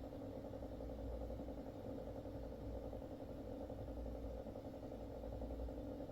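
Steady low mechanical hum and drone, like a motor or pump running continuously, carried through an apartment building's structure as unidentified inter-floor noise.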